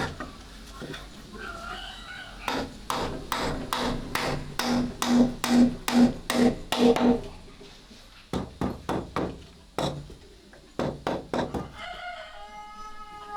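Chickens clucking in a quick run of short calls, then a rooster starting to crow near the end.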